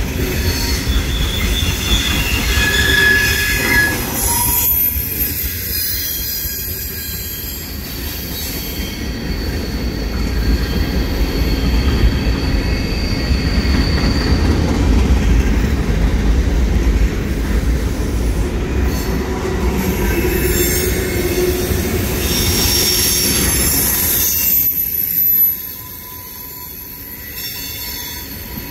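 Freight cars of a manifest train rolling past: a steady rumble of steel wheels on rail, with high-pitched wheel squeal that comes and goes. The sound drops suddenly about twenty-five seconds in.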